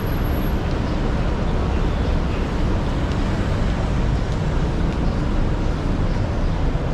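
Steady city street traffic noise, a constant rumble of vehicles with no single event standing out.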